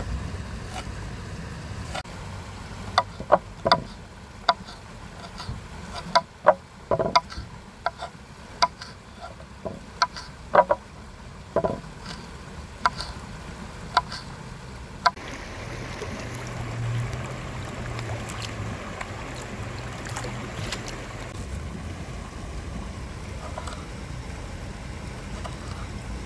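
A series of sharp, irregular knocks and clicks over a steady low rumble, giving way about halfway through to a steadier hiss with a low hum.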